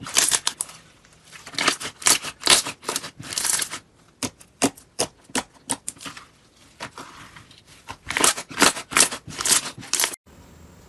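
Slime being squeezed and pressed by hand, giving runs of crisp crackling pops, two or three a second, with a quieter stretch in the middle. The sound changes abruptly near the end.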